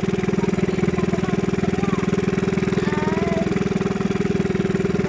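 Small fishing boat's engine running steadily at an even speed, with a fast regular pulse.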